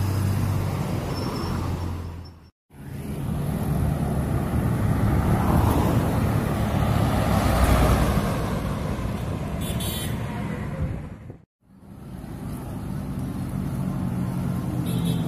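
Truck engines running amid traffic noise, heard in three short clips cut together.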